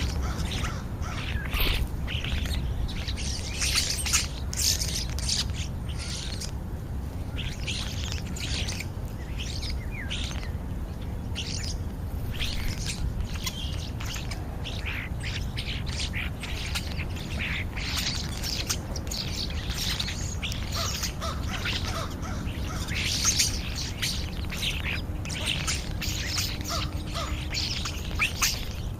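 A flock of European starlings chattering and squawking, many short high calls overlapping without a break, over a steady low rumble.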